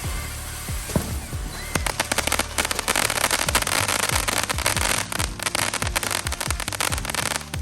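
Fireworks going off. A few thumps, then from about two seconds in a dense run of rapid crackling pops, over background music.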